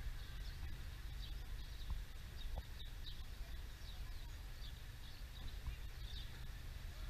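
Outdoor ambience: small birds chirping in short, high, repeated calls over a low steady rumble.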